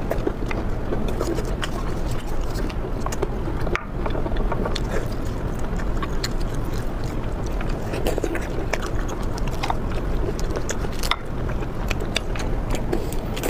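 Close-miked eating: chewing and biting with many small sharp clicks and wet mouth sounds, over a steady low hum.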